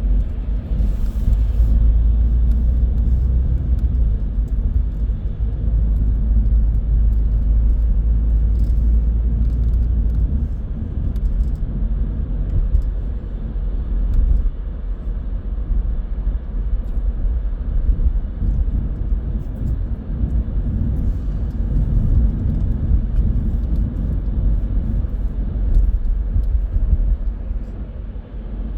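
A car driving on the road: a steady low rumble of tyre and engine noise, heavier for about the first ten seconds and somewhat lighter after that.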